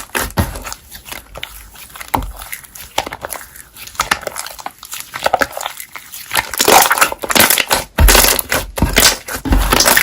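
Slime being squeezed and stretched by hand, making dense crackling, popping and squishing sounds. It is quieter for the first few seconds and gets louder and busier after about six and a half seconds.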